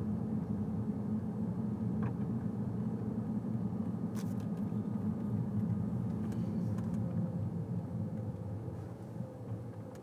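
Car driving along a residential street: a steady low rumble of engine and road noise, with a few faint clicks.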